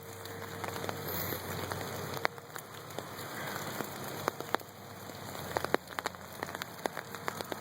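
Steady rain falling, an even hiss with many single drops tapping sharply close by at irregular moments.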